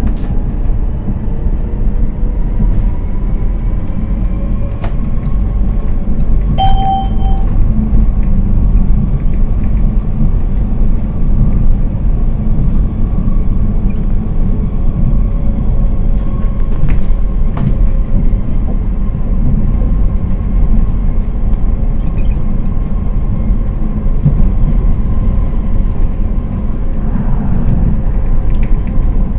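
Electric rail vehicle running: a steady rumble of wheels on track, with the motors' whine gliding upward in pitch as it gathers speed. A short beep sounds about seven seconds in.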